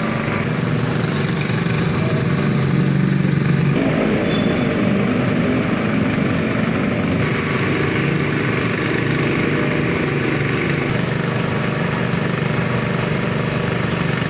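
A small engine running steadily, its note shifting about four seconds in.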